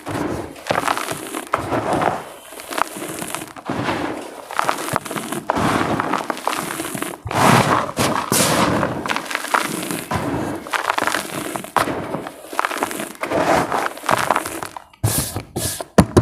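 Dry multani mitti (Fuller's earth clay) crumbling and crunching in irregular bursts, with a few sharp snaps of the clay breaking near the end.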